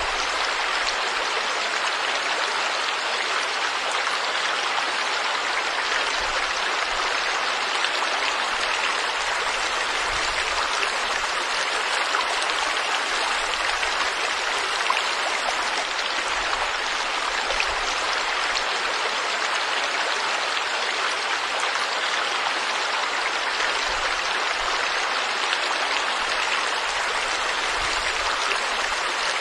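River water flowing: a steady, even rush with no breaks or pauses.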